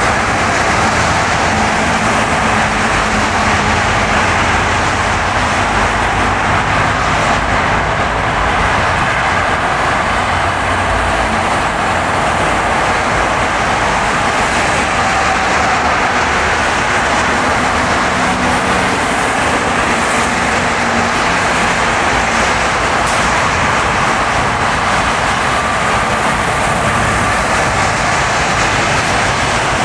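Car driving on a snow-cleared road: steady tyre and road noise with a low engine hum underneath.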